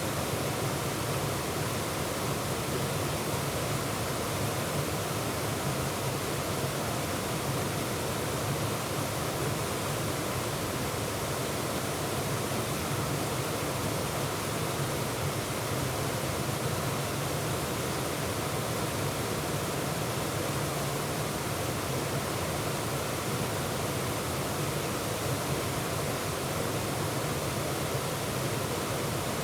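Waterfall: a steady, unbroken rush of falling water, close up from the middle of the falls.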